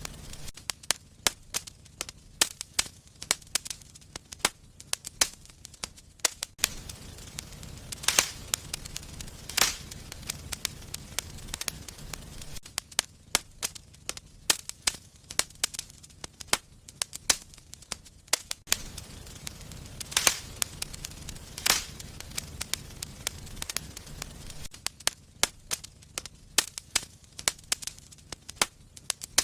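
Wood fire burning in a fireplace, crackling steadily with frequent sharp pops and a few louder snaps over a low rumble of the flames.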